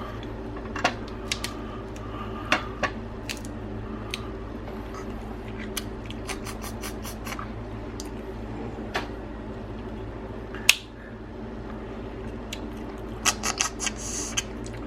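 Cooked crab shells being cracked and snapped apart by hand: scattered sharp cracks, the loudest about two-thirds of the way through and a quick run of them near the end, over a steady low hum.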